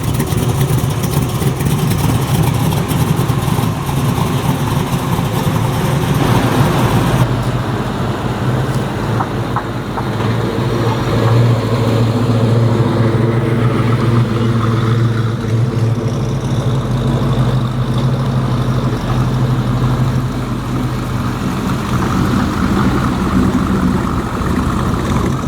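A car engine running steadily at a low idle, with a deep, even tone; the sound changes abruptly about seven seconds in.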